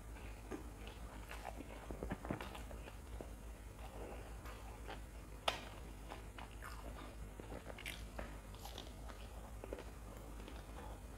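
Close-miked chewing and crunching of deep-fried snacks (wade fritters and fried chilies), a run of small crackles with one sharp crunch about five and a half seconds in.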